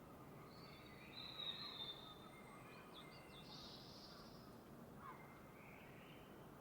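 Faint birds calling, several short whistles and chirps, over a low steady background hiss; the clearest calls come a little after a second in.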